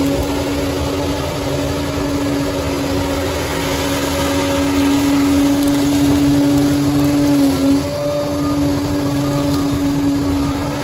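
Bulldozer's diesel engine running steadily with a constant droning tone, its pitch dipping briefly about three-quarters of the way through before settling again.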